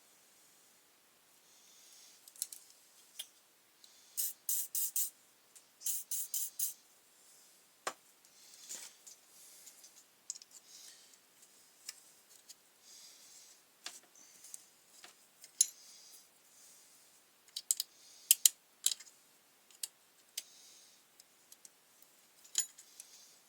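Hand tools clicking and scraping on the trimmer's small engine parts: scattered sharp metallic clicks, with two quick runs of four rapid clicks a few seconds in and another cluster of clicks later.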